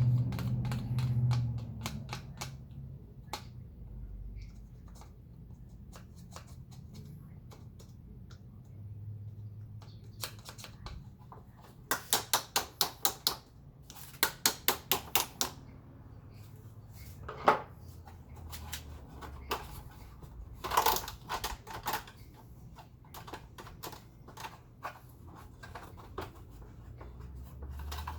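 Sharp clicks and taps from the hard plastic parts of a vacuum cleaner being handled and fitted together, including two quick runs of about six clicks each around the middle, followed by a few single louder clicks.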